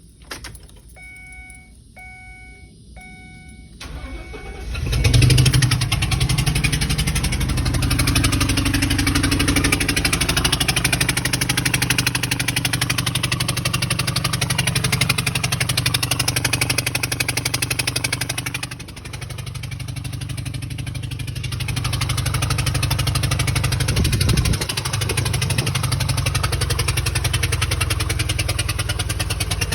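Three chime tones about a second apart, then the 2014 Ford E-250's 4.6-litre V8 cranks, starts and runs steadily with a knocking noise. The engine gets quieter for a few seconds partway through.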